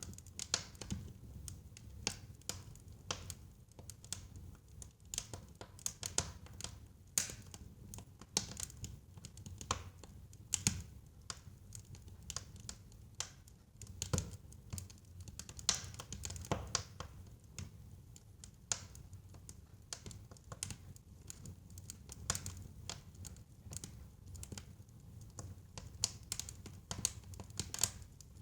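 Wood fire crackling in a fireplace: irregular sharp pops and snaps, now sparse, now in quick clusters, over a steady low rumble of the burning logs.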